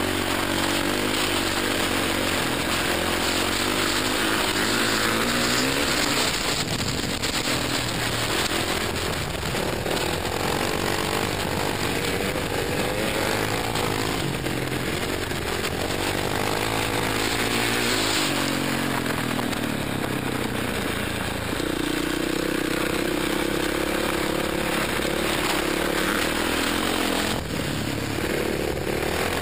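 KTM 525 single-cylinder dirt bike engine running hard at racing speed, its pitch rising and falling again and again with throttle and gear changes, over wind rush on the helmet microphone.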